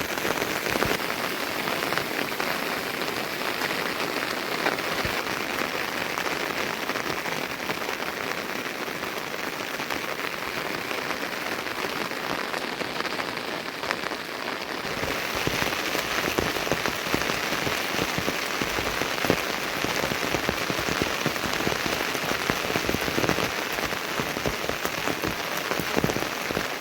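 Steady rain falling, with many separate drop impacts, growing a little heavier about halfway through.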